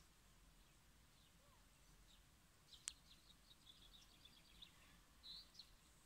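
Faint birds chirping over a quiet outdoor hiss. About three seconds in comes a single sharp tick, then a quick run of about ten high chirps over two seconds, and a louder chirp near the end.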